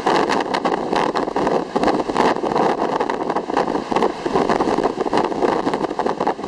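Strong typhoon-aftermath wind and rough sea: a dense, continuous rushing noise broken by many rapid crackles.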